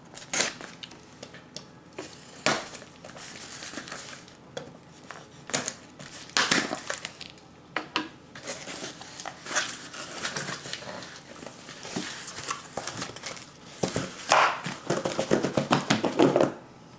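Plastic wrap and packaging on a sealed case of trading card boxes crinkling and tearing as it is unwrapped. The rustles are irregular and sharp, with a quick run of them near the end.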